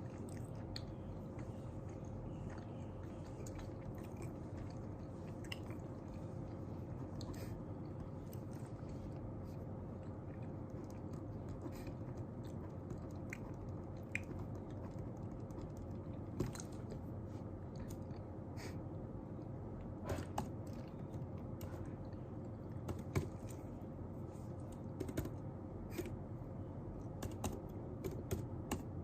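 Steady room hum with a faint constant tone, overlaid by scattered light clicks and taps of desk work such as keyboard typing, coming more often in the second half.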